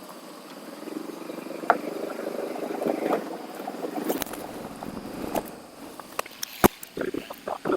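Motorcycle riding noise: a steady rush of wind with engine running underneath, broken by several sharp clicks and knocks in the last two seconds.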